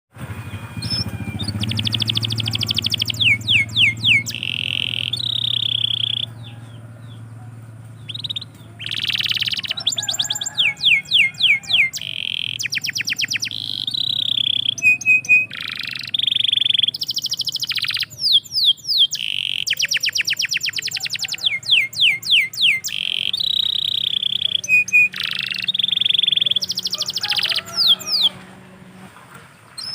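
Domestic canary singing: long phrases of fast trills and rolls with quick downward-sweeping notes, broken by short pauses between phrases.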